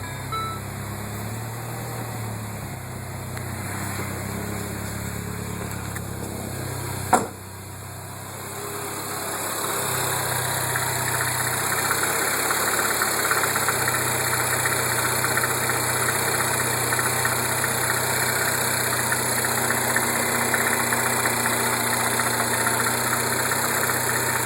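2007 Mini R56's 1.6-litre four-cylinder engine idling with a knocking rattle, the "death rattle" typical of a worn timing chain and tensioner. A single sharp knock comes about seven seconds in; from about nine seconds on the engine is louder and the rattle plainer.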